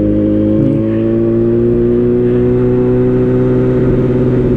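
Yamaha R1 sport bike's inline-four engine running under way, its pitch rising slightly over the first few seconds and then holding steady.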